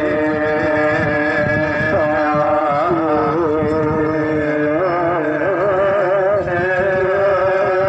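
Slow chanted singing: one melody in long, wavering held notes with slow slides between pitches.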